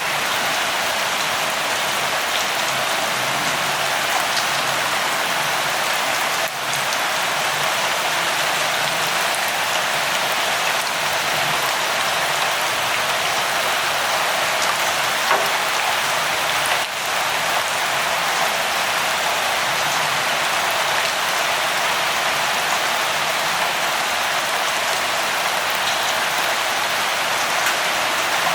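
Light rain falling steadily: an even hiss with scattered drop ticks, dipping briefly twice.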